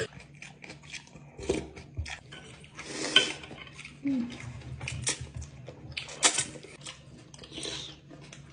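Someone eating a bowl of creamy instant noodles: utensils clicking against the bowl, with a few short slurps.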